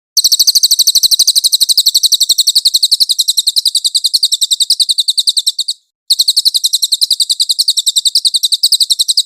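Cililin bird song: a rapid, even trill of high, clear chirps in two long runs, broken by a short pause about six seconds in.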